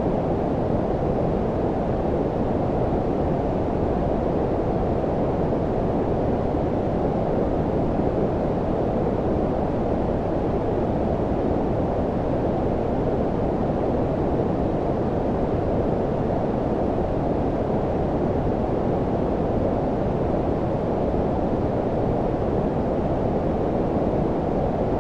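Steady synthetic low-frequency noise, a deep rushing hiss filtered so that nearly all of it sits below the mid range, even and unchanging throughout.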